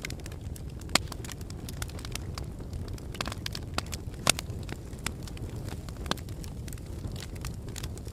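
Wood fire burning in a fireplace: a steady low rumble of flames with frequent sharp crackles and pops of burning wood, the loudest about a second in and just after four seconds.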